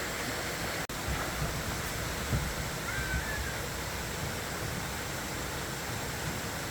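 Steady rushing noise, broken by a brief dropout about a second in, with a faint short chirp near the middle.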